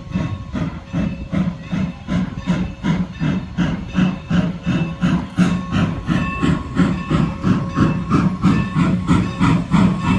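Norfolk and Western steam locomotive working, its exhaust chuffing in a steady, even rhythm of about two and a half beats a second.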